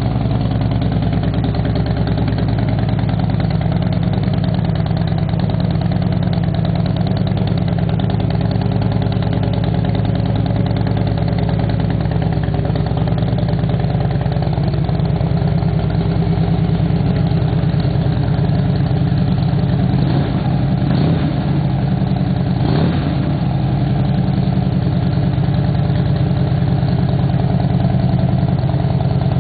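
Harley-Davidson Dyna Wide Glide V-twin idling steadily through freshly installed Rush slip-on mufflers.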